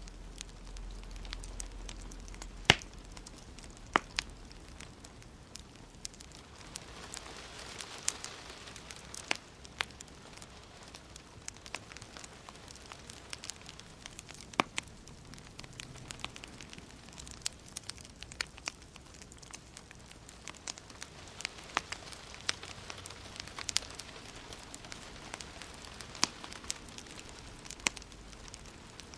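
Wood fire in a fireplace crackling, with irregular sharp pops and snaps over a soft steady hiss; the loudest pop comes about three seconds in.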